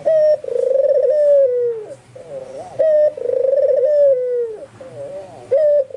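White (albino) puter dove, a domestic Barbary dove, cooing: twice a short higher note followed by a long rolling coo that slides down in pitch. Fainter, wavering coos from other doves come in between the calls.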